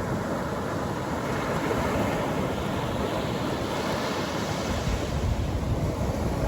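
Atlantic Ocean surf: waves breaking and washing onto the beach, with a surge of hiss about two seconds in and a heavier low rumble in the second half, and some wind on the microphone.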